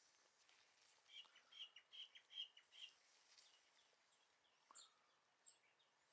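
Faint birdsong: a quick run of about six chirps in the first few seconds, then scattered high, thin calls.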